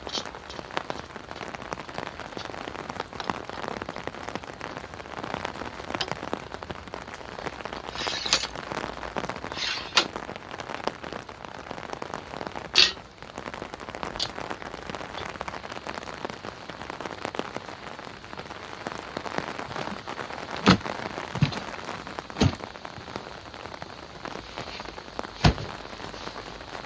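Steady heavy rain, with a few sharp, louder drops or taps standing out now and then.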